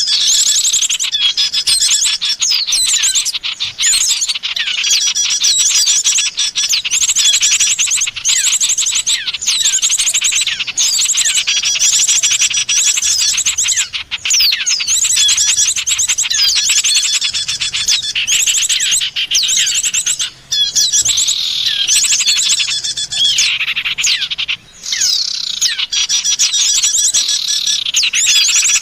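Recorded lure calls of small songbirds: a dense, unbroken chorus of rapid high chirps and trills from several birds at once, dropping out only briefly twice in the second half.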